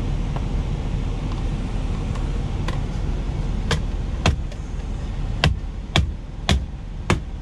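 Steady low rumble of an idling truck engine, with a run of sharp knocks, about two a second in the second half, from a knife chopping potato on a cutting board.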